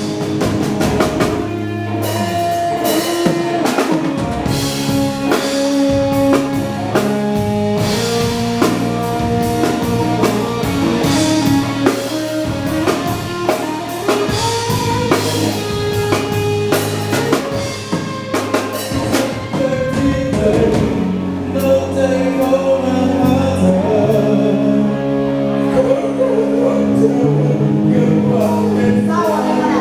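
Live pop band playing a dance number: drum kit keeping a steady beat under bass and held melodic notes, with singing at times.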